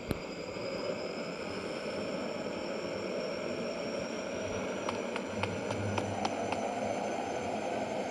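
Truck on the move: steady engine and road noise, with a faint high whine slowly rising in pitch and a short run of light clicks about five to six and a half seconds in.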